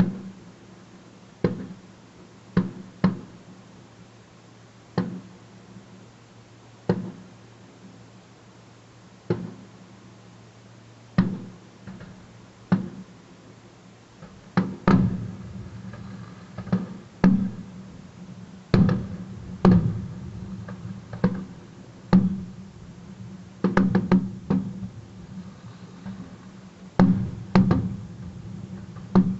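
Aerial fireworks bursting: a string of sharp bangs, each trailing off in a short echo. They come a second or two apart at first, then faster and overlapping from about halfway through, as the display builds.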